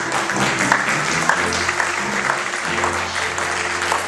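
Audience applauding, a dense crowd of hand claps, with music playing underneath.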